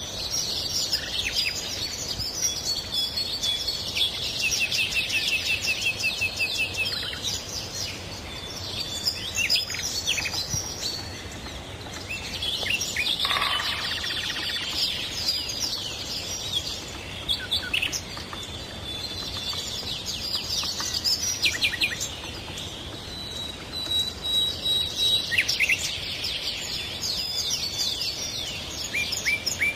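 Several birds singing and calling over one another: quick chirps, whistles and a rapid trill near the start, coming in waves, over a steady background hiss.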